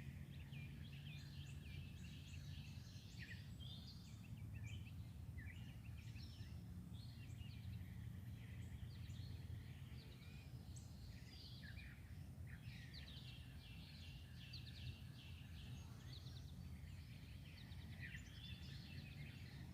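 Several songbirds singing and chirping at a distance, many short calls and trills overlapping, over a faint steady low rumble.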